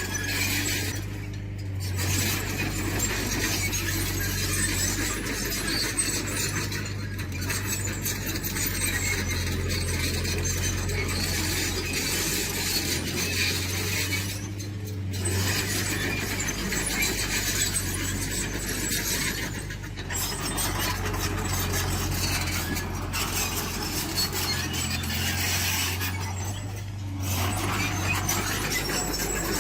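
Tracked earthmoving machine at work: a steady low diesel drone under continuous metallic clanking and squealing, with short lulls every several seconds.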